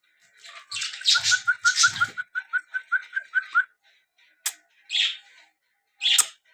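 Chukar partridge calling: a fast run of short, clipped notes, about five a second, with harsh rasping calls over its first part, then three separate harsh calls near the end.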